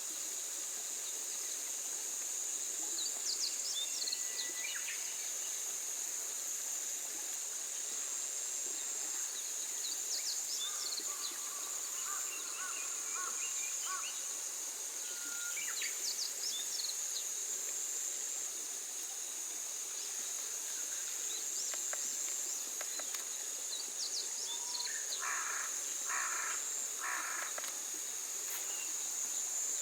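Steady high-pitched insect drone with birds chirping now and then. Near the end, a bird gives three harsh caws in quick succession.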